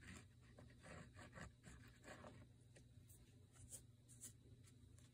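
Faint scratching and light taps of paper craft materials being handled, in near silence with a low steady hum.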